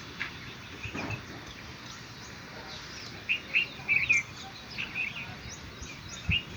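Small birds chirping in short, high chirps that come in clusters from about three seconds in, over a steady outdoor hiss.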